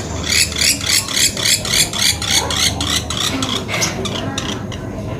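Woodpecker call: a rapid series of sharp, high repeated notes, about five a second, fading away after about three seconds.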